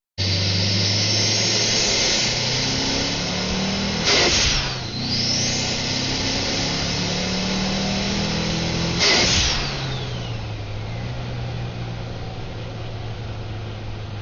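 Modified turbocharged Mitsubishi Lancer Evolution pulling hard, its engine note climbing under a strong hiss of induction noise. About four and nine seconds in, it shifts gear: each shift brings a sharp release of boost and a whistle falling in pitch as the turbo spools down. After the second shift the engine eases off and fades to a steady hiss.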